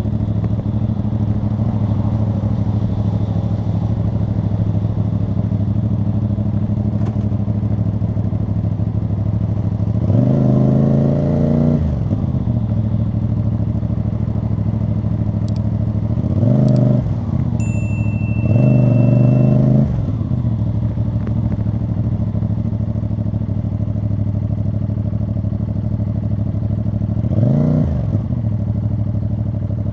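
CFMoto CL-C 450's parallel-twin engine running steadily at low revs through its exhaust. There are short throttle surges about ten seconds in, twice close together a little past halfway, and once near the end.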